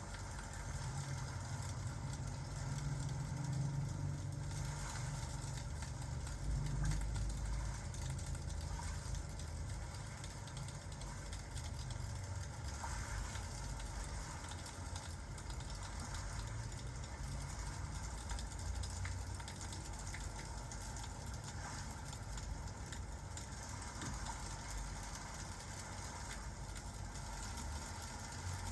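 Crackling fireplace and rain ambience: a steady low rumble under an even hiss, with scattered faint crackles.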